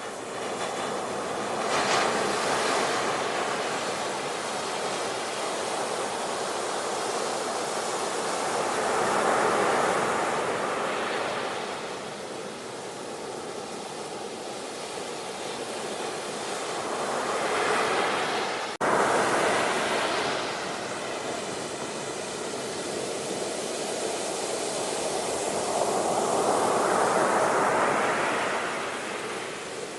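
Ocean waves washing onto a shore, a steady rush of surf that swells and eases about four times. A brief click and dropout about two-thirds of the way through.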